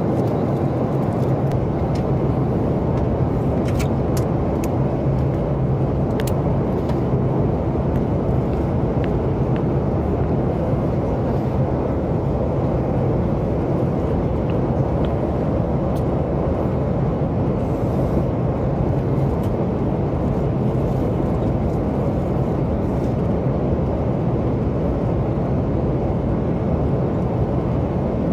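Steady cabin noise of a Boeing 737 MAX 8 in flight: an even rush of airflow and engine noise with a constant low hum underneath.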